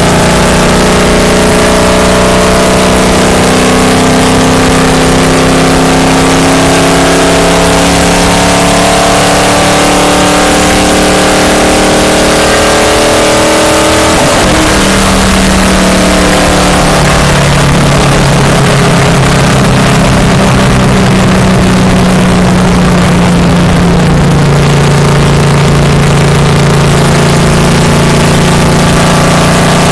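Stock car's V8 engine at racing speed, heard loud from inside the car with wind and road noise. The pitch climbs through the first dozen seconds, drops around the middle, holds lower and steady for several seconds, then rises again near the end.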